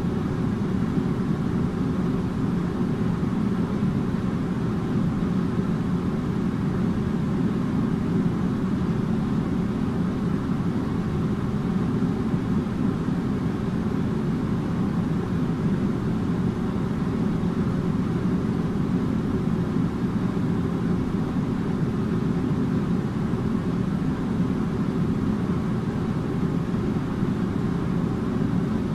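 Air conditioner running with a steady low hum and whoosh of air, with a faint steady tone above the hum.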